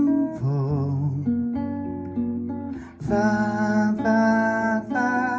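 Acoustic guitar strumming chords as song accompaniment, with a fresh strum about three seconds in. A wavering, held sung note is heard about half a second to a second in.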